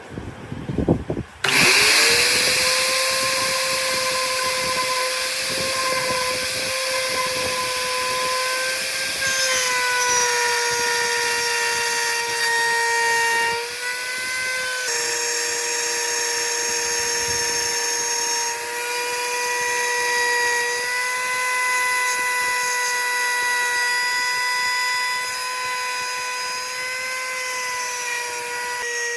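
Electric power tool starting up after a few knocks about a second and a half in, then running at a steady high-pitched whine, its pitch shifting slightly now and then as it works the wood.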